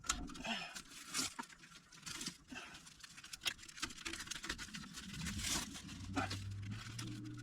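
Exhaust repair wrap being pulled tight and wound by hand around a muffler pipe: scattered crinkling and scratching clicks. A low steady hum comes in about five seconds in.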